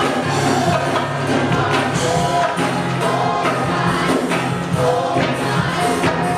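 Live gospel-style worship music: a band with a group of singers, over a steady beat.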